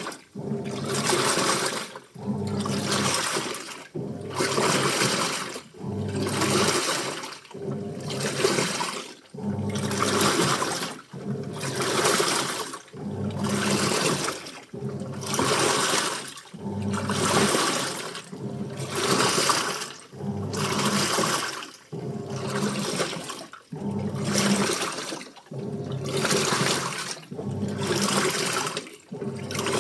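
Washing machine in its wash cycle, the drum turning in short strokes: water and wet clothes slosh in a steady rhythm of surges, about one every second and a half, each with a low motor hum and a brief pause between.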